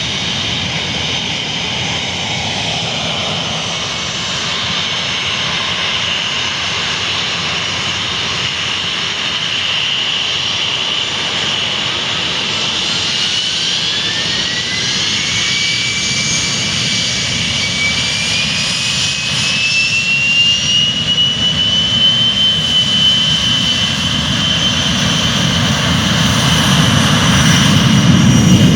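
Boeing airliner's jet engines running, with a whine that rises steadily in pitch from about halfway through and then holds high, while a low rumble grows louder near the end: the engines spooling up for takeoff.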